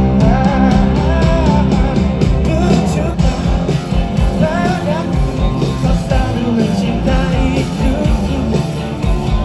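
Live rock band playing an instrumental passage between sung lines, with drums, bass and electric guitars, and a wavering melodic lead line over them.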